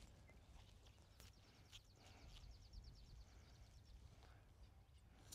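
Near silence on the course, with a faint, rapid high trill from a small bird lasting about two seconds.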